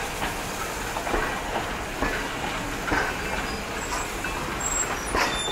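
Passenger coaches and a caboose rolling past behind a steam locomotive, their steel wheels clicking over rail joints roughly once a second.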